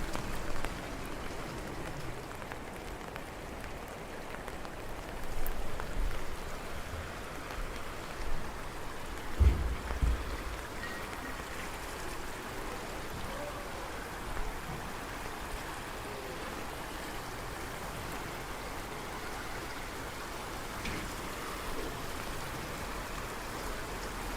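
Steady rain falling, a continuous even hiss of drops on surfaces, with a few brief low thumps about nine to ten seconds in.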